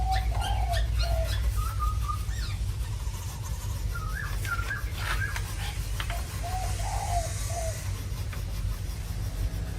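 Birds calling in short, scattered phrases over a steady low rumble.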